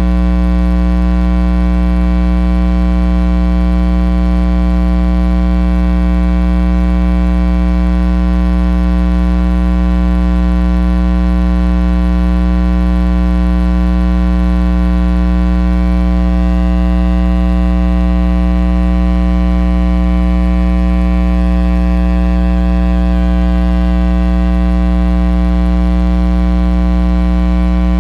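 Loud, steady electrical mains hum with a dense stack of overtones, unchanging throughout; a faint higher whir joins it about halfway through.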